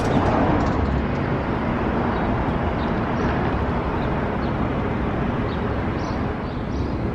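Steady outdoor street noise of road traffic, with a few faint high chirps in the second half.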